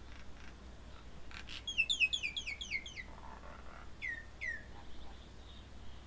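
A bird calling: a quick run of about nine notes, each sliding down in pitch, then two more single falling notes after a short pause.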